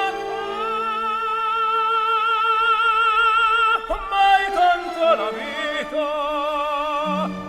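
Operatic singing as background music: a voice holding long notes with wide vibrato over sustained accompaniment, with a brief break and new phrase about four seconds in.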